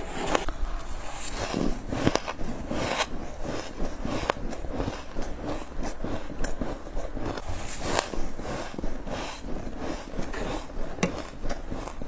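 Close-miked bites of freezer frost, crunching and crackling in an irregular run of sharp snaps.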